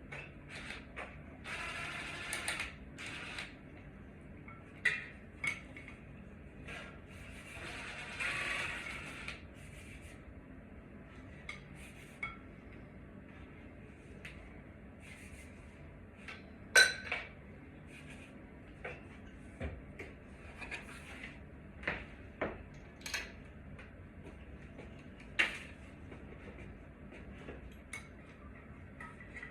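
Hand-tool work on a ceiling fan as its blades are taken off: scattered clicks and metal clinks, with two short noisy stretches about two and eight seconds in, and a sharp clank about halfway through that is the loudest sound.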